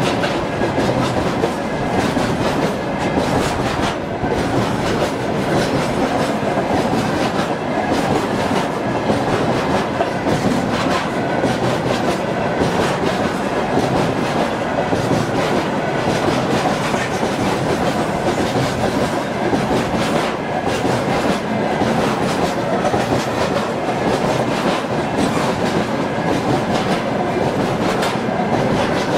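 Freight train of railway tank cars rolling past close by: a steady rumble, with the wheels clacking over the rail joints again and again.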